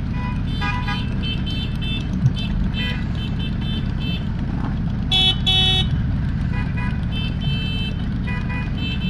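Motorcycles riding in a group, a steady low engine rumble under many short horn toots and beeps, with two louder horn blasts about five seconds in.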